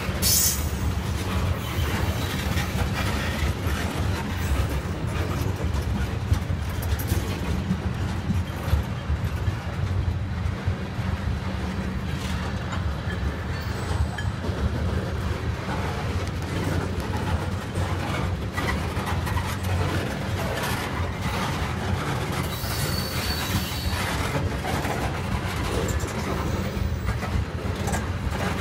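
CSX freight train of tank cars rolling past: a steady rumble of steel wheels on the rails with light clicks at the rail joints, and brief high squeals at the start and about two-thirds of the way through.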